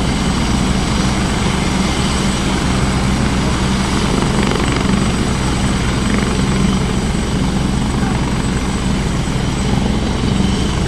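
Rescue helicopter running on the ground after landing, its turbine engines and rotor making a steady, unchanging noise with a thin high whine over it.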